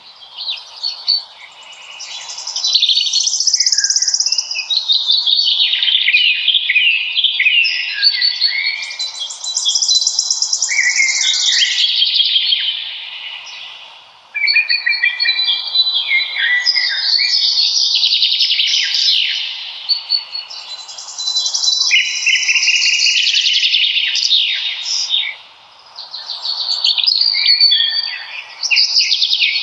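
Many songbirds singing and chirping at once, a dense chorus of overlapping high trills and chirps that thins briefly twice.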